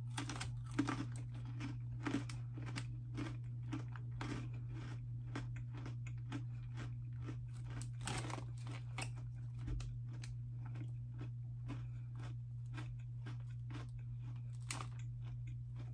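A person chewing thick, crunchy Flamin' Hot Cheetos pretzels: close crunching and chewing, with many quick crisp cracks spread throughout.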